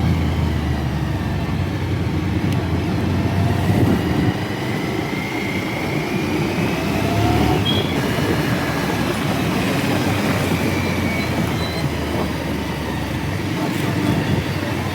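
Steady rumble of a motorcycle ride through traffic: engine hum with wind and road noise, and faint whines that rise and fall.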